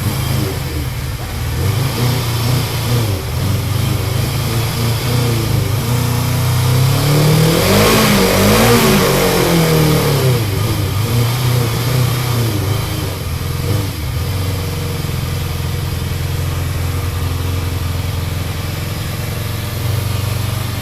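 Suzuki GS550's air-cooled inline-four engine idling, blipped up twice in quick succession about eight seconds in, then dropping back to a steady, fairly smooth idle.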